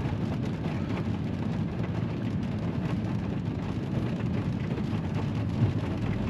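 Steady low rumble and hiss inside a car cabin during a light rainstorm, with one brief bump about five and a half seconds in.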